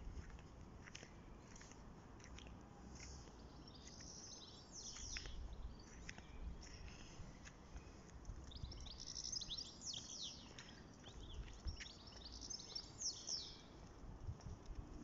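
Small birds chirping in clusters of quick, falling high calls, busiest around the middle and again near the end, over a faint low rumble.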